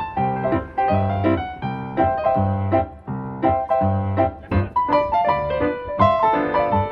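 Background music on piano: chords struck in a steady rhythm, with bass notes and a melody line above.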